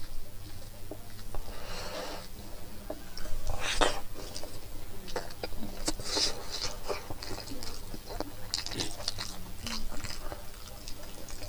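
Close-up chewing and wet mouth smacking, irregular and uneven, as someone eats pork and rice by hand.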